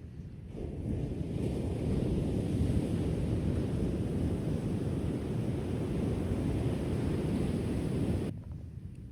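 Ocean surf washing in: a wave's rush swells about a second in, holds as a steady low wash, and falls away suddenly near the end.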